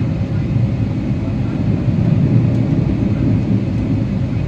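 Steady low rumble of a Boeing 777-300ER's GE90 engines and airframe, heard from inside the passenger cabin.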